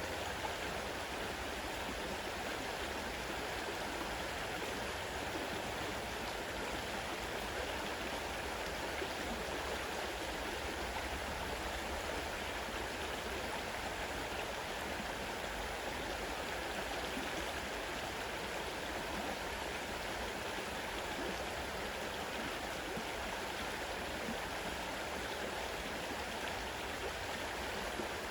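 Fast-running river water rushing steadily over rocks, a constant even rush.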